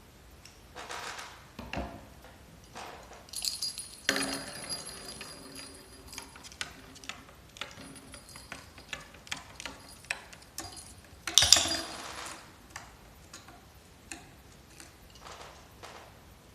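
Small metal jingling toy handled in short bursts, ringing with a clear high tone, among scattered clicks and taps; the loudest jangle comes about eleven seconds in.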